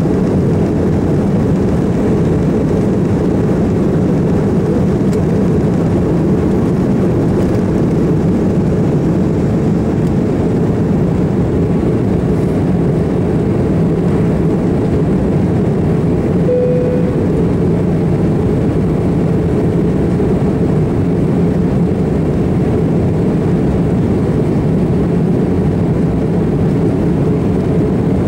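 Airbus A330-300's General Electric CF6 turbofan engines running, a steady deep rumble that holds level throughout. A short single tone sounds once, a little past halfway.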